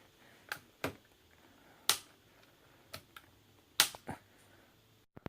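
A few sharp clicks and taps of small hard objects being handled, about seven spread unevenly over five seconds, the loudest about two seconds in and just before four seconds in.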